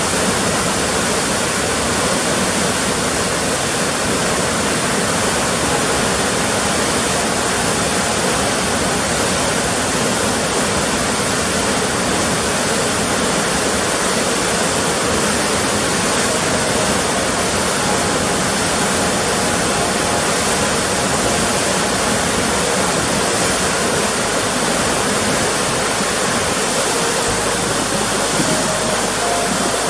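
Loud, steady rushing of water, even and unbroken, with faint music notes coming in near the end.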